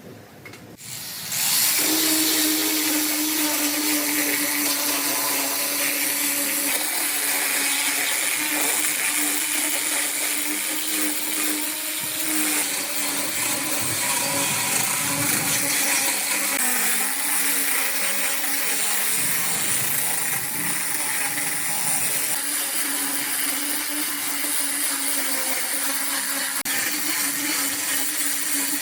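A power tool's motor starts about a second and a half in and runs steadily with a constant hum and a wide, hissing whine.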